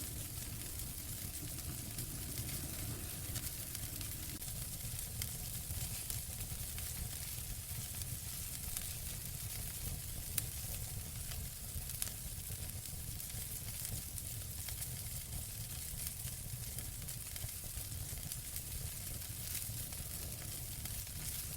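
Fire burning in a fireplace: a steady hiss with frequent small crackles, and two louder pops about ten and twelve seconds in.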